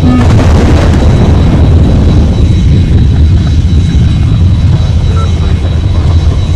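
Jet airliner engine noise: a steady, loud rumble with a thin high whine held above it.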